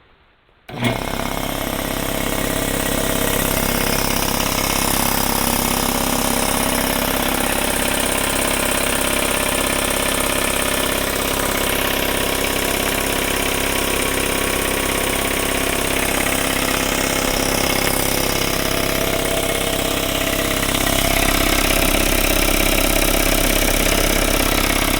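Craftsman 20-gallon air compressor with a 5 HP 240-volt electric motor starting up with a sudden kick about a second in. It then runs steadily as its piston pump fills the tank, getting louder a few seconds before the end.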